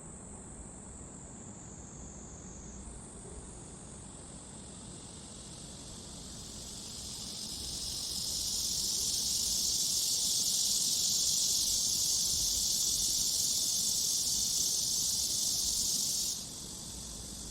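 Insects calling: a steady high-pitched trill, joined by a loud hissing buzz that swells up about six seconds in, holds, and cuts off suddenly near the end.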